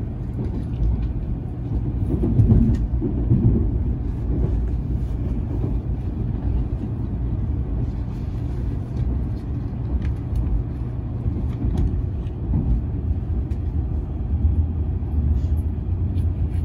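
Cabin noise of a Shinkansen bullet train running on the line: a steady low rumble, swelling briefly about two to four seconds in.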